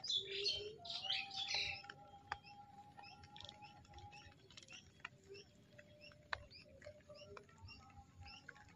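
Small birds chirping, faint: a cluster of louder chirps in the first two seconds, then scattered short calls over a faint steady whistling tone.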